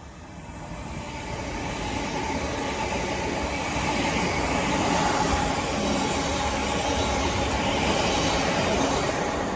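A train running past on the tracks: rumble and rail noise that builds over the first few seconds, then holds steady and loud.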